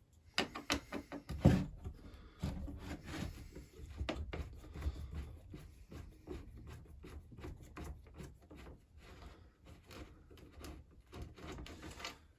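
Irregular clicks, knocks and rubbing from a Husqvarna 346XP chainsaw and tools being handled during a teardown, with a louder knock about a second and a half in.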